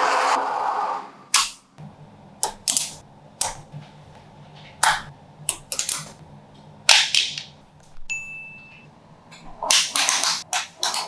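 Magnetic balls snapping and clicking together in irregular sharp clicks, with a longer rattling burst in the first second. A short, high, steady tone sounds briefly about eight seconds in.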